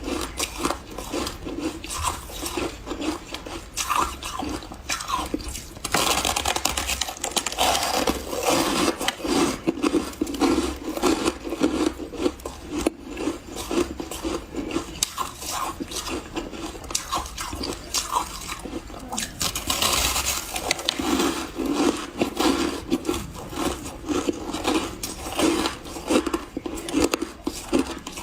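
Close-up crunching and chewing of refrozen powdery freezer ice: a dense run of soft, irregular crunches, busier from about six seconds in and again near twenty seconds.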